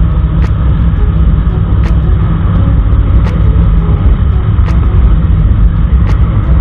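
Motorcycle riding noise: the engine running steadily under a heavy rush of wind and road noise. A faint sharp tick sounds about every second and a half.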